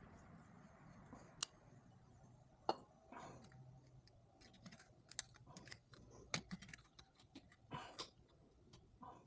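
Faint, scattered clicks, taps and brief rustles of parts and tools being handled, with no engine running; the sharpest click comes about a third of the way in.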